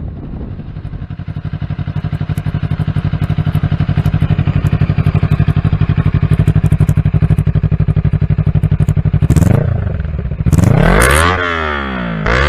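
Honda Grom's swapped-in CBR250RR (MC51) 250 cc parallel-twin engine idling with an even pulsing beat, growing louder over the first couple of seconds. Near the end it is revved in quick throttle blips, the pitch rising and falling each time.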